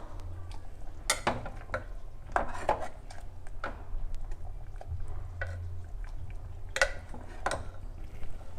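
Metal utensils clinking and scraping against a cooking pot: a run of irregular sharp knocks and clinks over a steady low hum.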